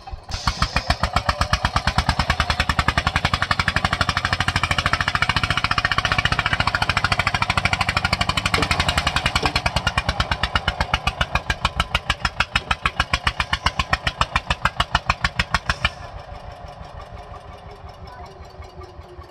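Eicher tractor's diesel engine working hard under load, with rapid, even exhaust beats. About three-quarters of the way through it drops abruptly to a quieter beat as the throttle eases off.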